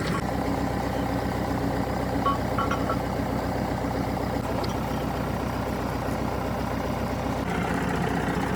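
Heavy engine running steadily at idle, with a few short high beeps over it a little over two seconds in.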